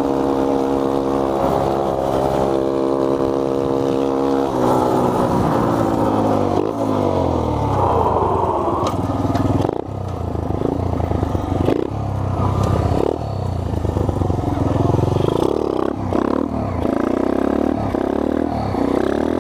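Small single-cylinder engine of a 1986 Honda 50R mini bike running at a steady speed for a few seconds, then revved up and down again and again while riding.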